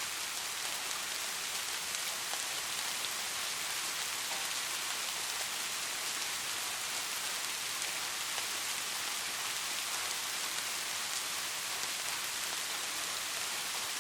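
Steady rainfall, an even hiss of many drops pattering on surfaces with faint individual drop ticks.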